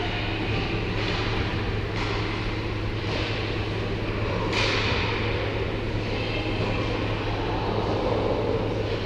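Ice hockey rink during play: a steady background din over a constant low hum, broken by a few sharp knocks, the loudest about four and a half seconds in.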